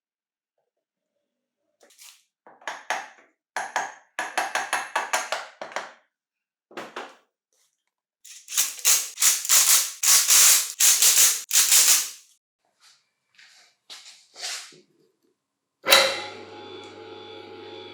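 Workshop handling noises: bursts of clicking and rattling, then a longer stretch of dense scraping in the middle. Near the end a steady hum starts suddenly.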